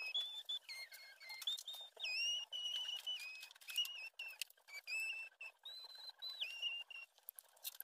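A bird singing a run of high whistled notes that hold a pitch and then step or glide up and down, with light clicks and knocks of tools being handled.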